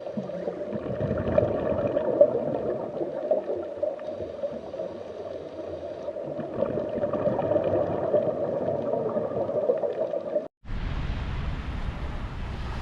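Muffled underwater sound picked up through a dive camera housing: a dense, crackling gurgle of bubbles and water. It cuts off suddenly about ten and a half seconds in, and a steady low rumble follows.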